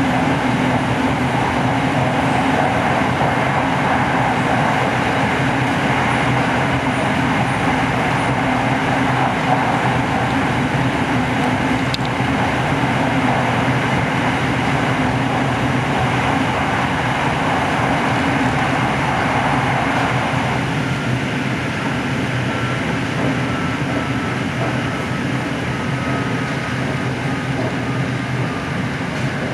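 SRT Red Line electric commuter train running at reduced speed: a steady rail and traction rumble. About two-thirds of the way through, the rumble eases and a faint whine slowly falls in pitch.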